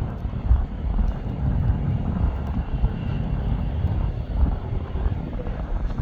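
Airliner jet engines rumbling steadily, the sound heaviest in the deep low end.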